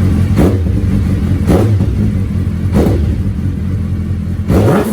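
Suzuki Hayabusa's inline-four running through an Akrapovic exhaust with no turbo whistle fitted, idling with four quick throttle blips, about one a second.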